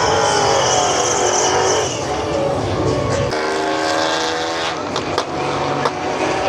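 Muscle car engine running and revving, its pitch shifting, with an abrupt change in the sound about three seconds in and a few sharp clicks near the end.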